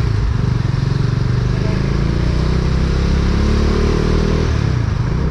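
A vehicle engine running under way with steady wind and road noise. Its pitch rises a little in the middle, then eases off about four and a half seconds in.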